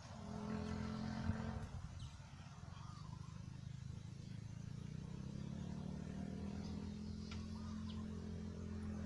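A motor vehicle's engine running with a low, steady hum, briefly in the first second and a half, then again from about halfway, growing gradually louder.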